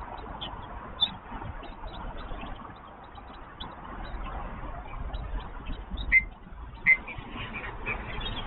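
Short bird chirps and calls, with two louder sharp calls about six and seven seconds in and more calls near the end, over a steady low rumble of city background noise.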